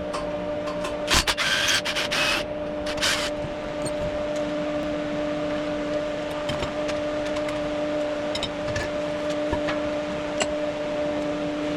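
A steady electrical hum, typical of a welding machine left running in the workshop. About a second in comes a short burst of hissing noise, then a briefer one a second later, with scattered clicks of metalwork after.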